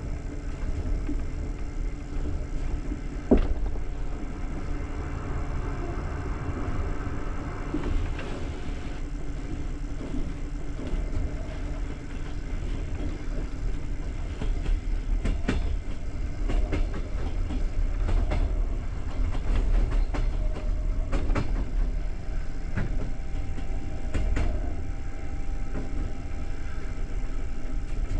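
Passenger train coach running along the track: a steady low rumble with scattered clicks and knocks from the wheels, the sharpest about three seconds in.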